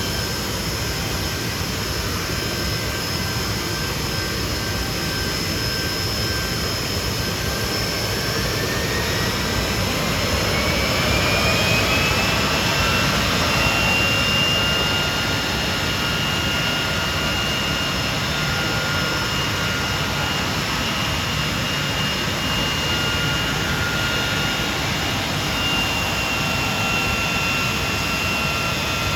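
Hawker Siddeley Nimrod's Rolls-Royce Spey turbofan engines running, a steady jet roar with high whining tones. About eight seconds in, a whine rises in pitch over several seconds as an engine spools up, then holds steady at the higher setting.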